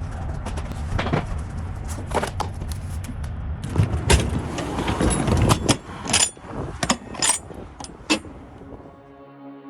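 Low vehicle rumble with irregular clattering knocks and rattles. Soft, steady music begins near the end.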